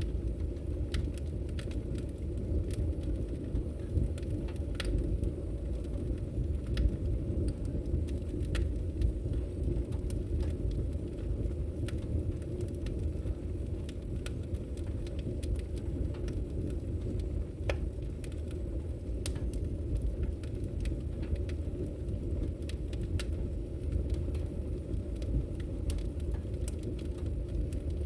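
Wood fire crackling in a fireplace: a steady low rumble of burning with scattered sharp snaps and pops at irregular moments.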